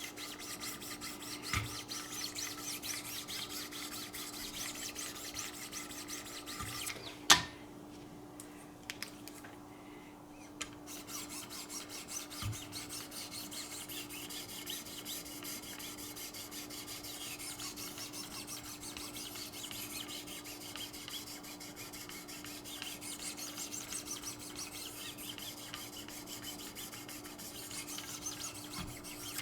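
Wicked Edge 1,500-grit diamond stones stroked back and forth along a knife blade's edge, a fast, fine rasping scrape. The scraping pauses briefly after a sharp click about seven seconds in, then resumes, over a steady low hum.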